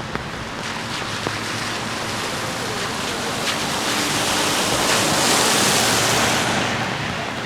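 Steady rain with a few sharp drips, and a rushing hiss that swells in the middle and fades again.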